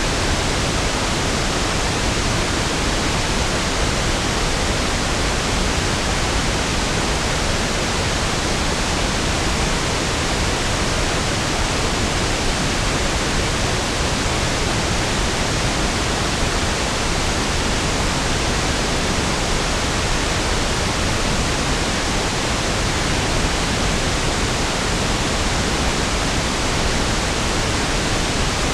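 Steady pink noise: an even, unchanging hiss with equal energy per octave, smoother and deeper than white noise, with no events.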